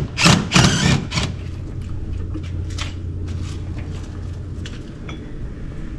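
Workshop sounds: a steady low hum throughout, with a few short, loud scraping or clattering noises in the first second, then light knocks and clicks.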